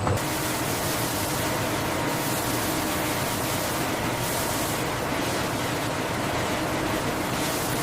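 Steady, even hiss-like noise with no distinct knocks or tones in it.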